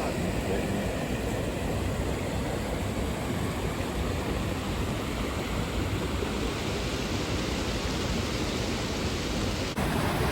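Steady rushing roar of a waterfall's falling water. The noise changes abruptly near the end.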